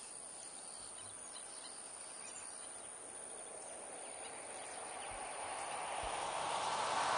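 Open-air wetland ambience with a few faint, short bird calls, then a broad rushing noise that grows steadily louder over the last three seconds.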